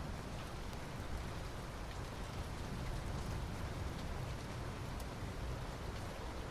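Soft rain falling steadily on asphalt: an even hiss with scattered faint drop ticks, over a low rumble.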